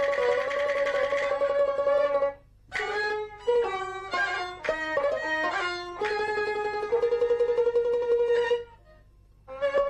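Jinghu, the high-pitched Peking opera fiddle, playing a melodic instrumental passage of sustained, quickly re-bowed notes and ornamented runs, with two brief breaks between phrases.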